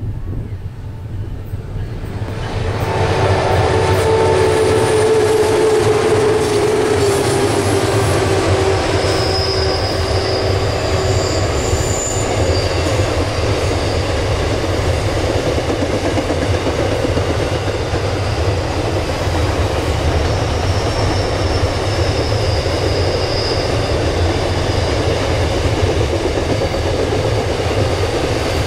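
Three CM class diesel locomotives pass close by with engines running, getting loud about two seconds in, then a long rake of empty open wagons rolls past with a steady rumble and clickety-clack. Thin high wheel squeals come and go a few times as the wagons take the curve.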